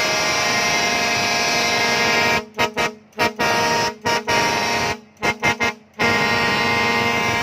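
Twin-trumpet air horn on a rice combine harvester blowing: one long blast, then a quick series of short toots, then another long blast held near the end.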